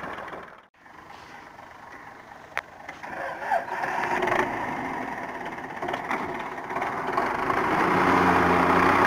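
Tractor engine running; the sound drops out briefly under a second in, then grows steadily louder with a low, steady tone toward the end. A single sharp click comes about two and a half seconds in.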